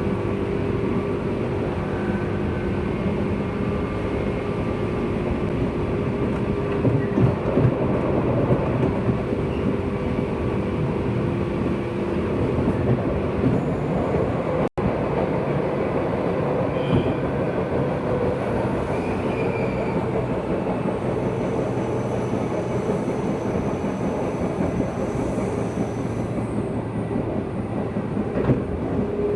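Running noise of a JR West 201 series electric train from on board its MoHa 200 motor car: a steady rumble of wheels on rail with some hum. The sound cuts out for an instant about halfway through.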